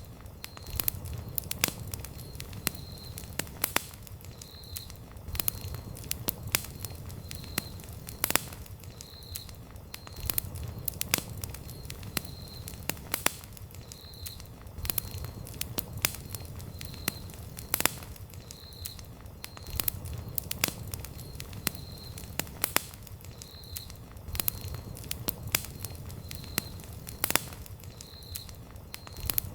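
Wood campfire crackling, with irregular sharp pops over a low steady rumble of the flames. A faint high chirp repeats about once a second.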